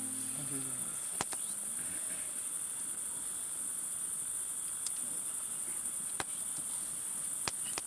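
Crickets chirping in a steady, continuous high-pitched trill, with a few sharp clicks and faint fading low notes at the very start.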